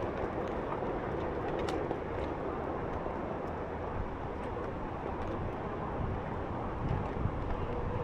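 Steady rush of wind on a moving microphone over the rolling noise of a Onewheel electric board on pavement, with a few faint ticks.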